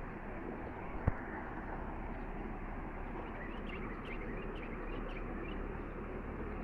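River water flowing steadily, with a sharp click about a second in. Midway comes a quick run of short bird calls.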